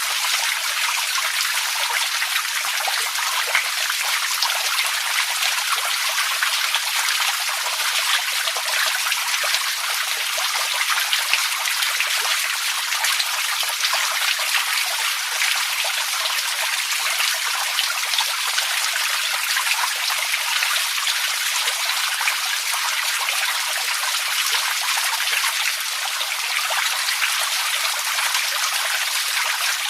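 Running water trickling and splashing steadily, with many small droplet splashes over an even rush.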